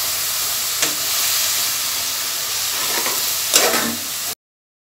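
Vermicelli frying with sugar and water in a pan, sizzling steadily as it is stirred with a metal spatula, with two sharper clinks of the utensil against the pan. The sound cuts off abruptly near the end.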